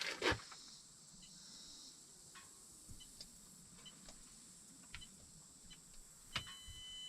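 Electronic keypad door lock being worked: a sharp click, then short high beeps as the code keys are pressed, and a longer steady beep near the end as the code is accepted. Faint crickets can be heard in the first couple of seconds.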